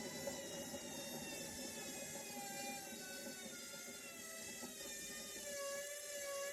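Indesit washing machine running, its drum motor whirring with a whine that wavers and shifts in pitch as the motor speed changes.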